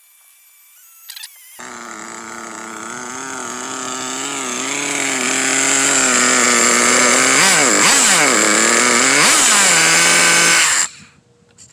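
Hyper .21 nitro two-stroke RC engine catching about a second and a half in and running at high revs, its pitch dipping and rising a few times, then cutting off suddenly near the end. The clutch bell has failed, so the engine is running without driving the car.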